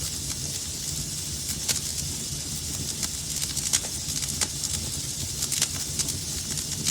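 Wood fire burning in a fireplace: a steady low rumble and hiss with irregular sharp crackles and pops, a few louder snaps scattered through.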